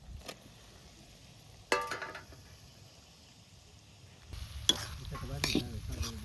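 Pork and gourd curry frying in a pot, with a spoon stirring and scraping through it over a sizzle. It gets louder and busier about four seconds in.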